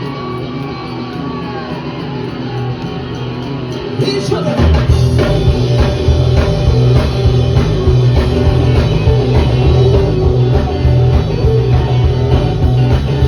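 Live rockabilly band playing; about four seconds in, the full band with drums comes in and the music gets louder with a steady beat.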